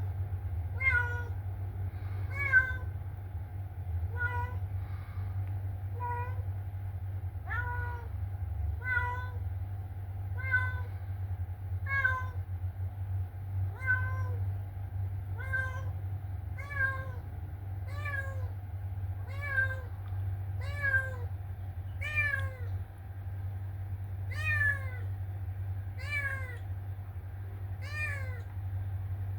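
A cat meowing over and over, about one short meow every second and a half, each call dropping in pitch at its end, with a steady low hum underneath.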